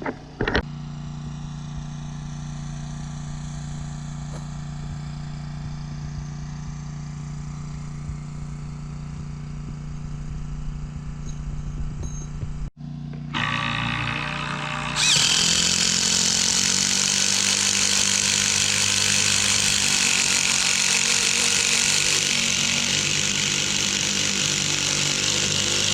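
Cordless impact drivers driving long log screws into wood, a dense hammering rattle over a steady low engine hum. About halfway through there is a brief break, and then the hammering comes back much louder.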